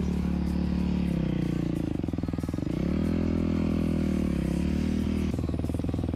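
Dirt bike engine running, its revs dropping about a second in, climbing again around three seconds in, holding, then easing off.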